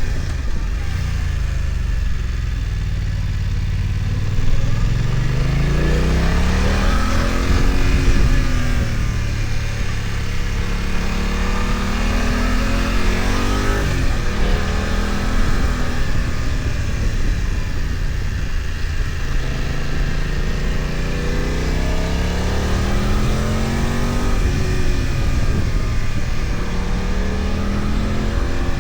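BMW F900XR motorcycle's parallel-twin engine pulling uphill, its pitch climbing steadily and then falling back several times as the rider accelerates, eases off and shifts. There is a sudden drop in pitch about halfway through.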